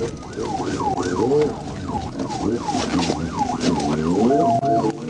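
Police car siren on a fast yelp, its pitch sweeping up and down about twice a second.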